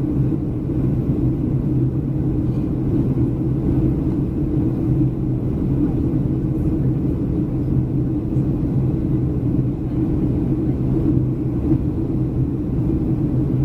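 Steady cabin noise of a Boeing 737-300 in flight: the even drone of its CFM56 turbofan engines and the rush of air over the fuselage, with a low hum.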